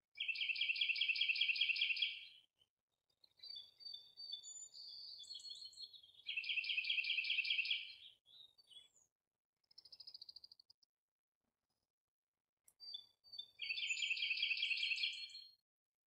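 Songbird singing: three loud bursts of rapid trilled song, each about two seconds long, near the start, in the middle and near the end, with shorter chirps and whistled notes in between.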